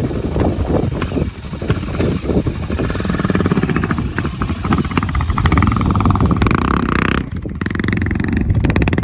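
Motorcycle engine running, its pitch climbing over a few seconds, then briefly dropping off about seven seconds in before running on steadily.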